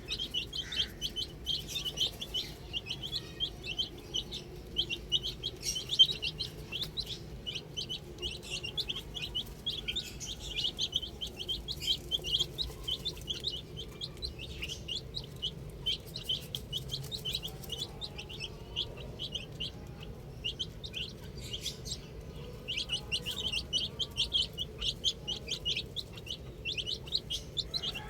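A group of baby chicks peeping: many short, high chirps in quick succession, thinning out for a few seconds past the middle before picking up again.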